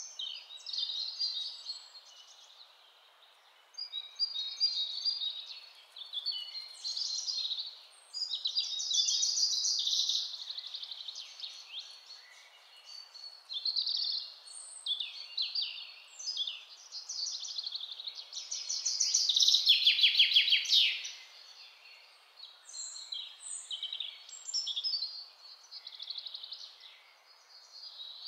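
Recorded birdsong: short chirps and trills in varied, overlapping phrases over a faint steady background hiss, loudest about two-thirds of the way through.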